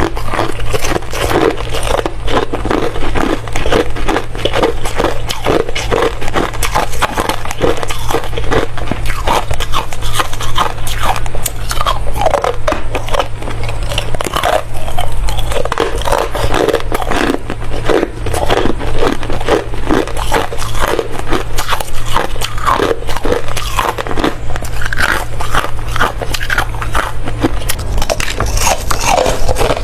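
Close-miked biting and chewing of ice: a dense, continuous run of sharp crunches and cracks as the ice is broken between the teeth.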